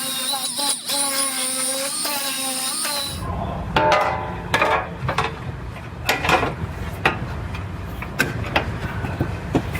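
Background music that cuts off about three seconds in, giving way to a steady low hum and a run of irregular knocks and clicks as a sheet-metal dogleg panel is handled and fitted against the car body.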